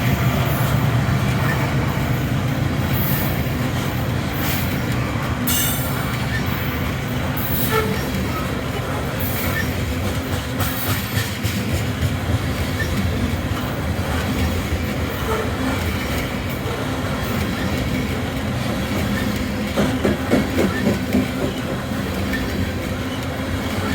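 Loaded coal train rolling past at low speed with a steady heavy rumble. Scattered sharp clicks come from the wheels, and a quick run of clacks over rail joints sounds about twenty seconds in.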